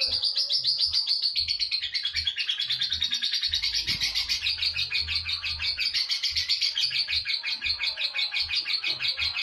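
A lovebird's long ngekek: a rapid, unbroken high-pitched chatter of many short notes a second that never pauses.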